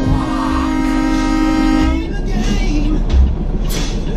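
Air horn blowing one long, steady chord that cuts off about two seconds in, over the constant low rumble of engine and road noise in a truck cab.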